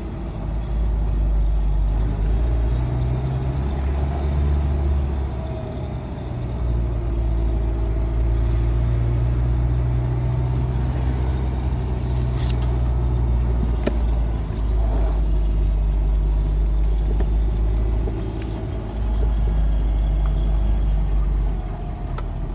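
Engine and road noise of a 1992 Ford Ranger pickup heard from inside the cab while it is driven, a steady low drone whose pitch and loudness shift several times as the truck changes speed.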